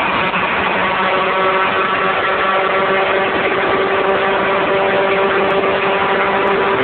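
Honda K20A four-cylinder engine in a Civic EG6 running at high, steady revs at high highway speed, its drone creeping slowly higher in pitch. The engine is heard from inside the cabin under loud wind and road noise.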